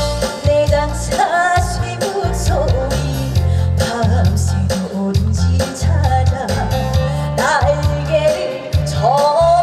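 A woman singing a trot song live over instrumental accompaniment with a steady bass beat, her voice sliding between notes.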